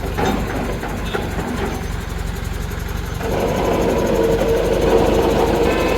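Diesel engine running steadily, with a few light knocks early on, then revving up to a louder, higher-pitched run about three seconds in.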